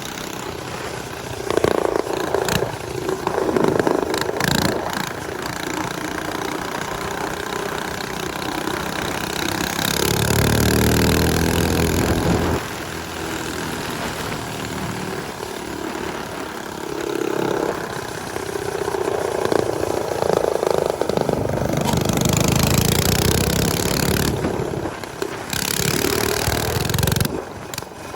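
Small motorcycle engines running during a ride, their pitch rising and falling with the throttle. One engine is loudest and steadiest from about ten to twelve seconds in.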